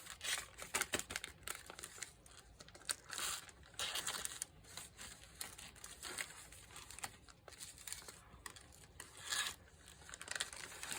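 Sheets of paper being handled, rustling and crinkling in short irregular bursts.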